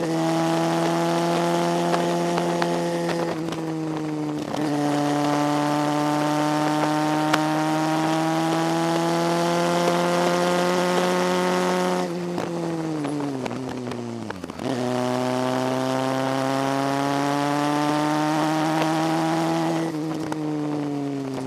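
Motorcycle engine heard from on the bike, pulling steadily uphill with its pitch slowly rising. About twelve seconds in the throttle closes and the engine note falls away; a couple of seconds later it picks up again and pulls steadily, then falls once more near the end as the bike slows for a hairpin.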